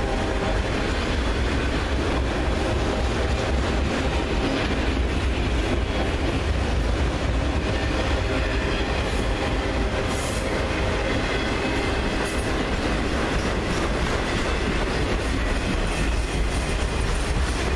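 Freight train of autorack cars rolling past close by: a steady rumble and clatter of steel wheels on the rails.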